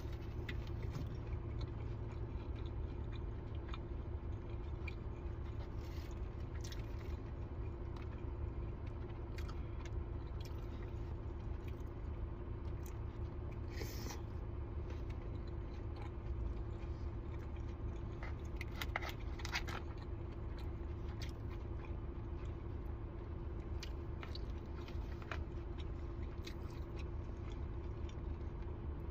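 A person chewing and biting food close to the microphone: scattered short, crisp and wet mouth clicks, a little louder about halfway through and again about two-thirds through, over a steady low hum.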